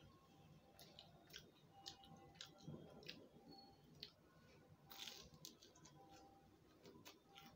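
Faint chewing and mouth sounds of someone eating crisp fried bread pakora by hand, with scattered soft clicks and crackles.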